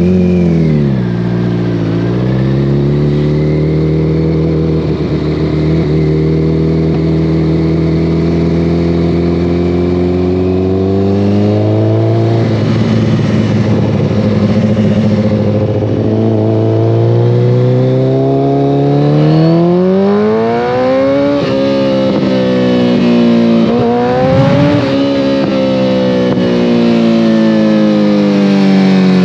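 2014 Kawasaki ZX-14R's inline-four engine through a full Brocks Alien Head 2 exhaust, heard on the move. The revs drop sharply at the start, then the engine holds a steady note for several seconds. It then revs up hard through the gears, with quick breaks in pitch at the shifts, and the note falls away near the end.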